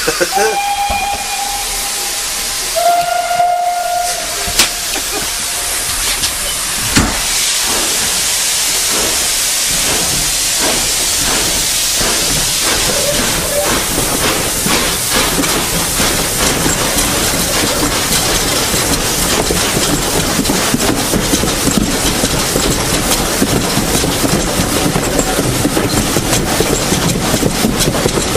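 Steam locomotive: two short whistle blasts near the start, then a loud, continuous hiss of steam. A steady run of beats sets in under the hiss from about a third of the way in.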